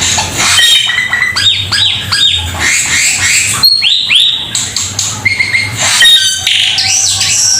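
Cucak keling singing loudly and continuously: quick runs of sweeping whistled notes mixed with harsh squawking calls, over a steady low hum.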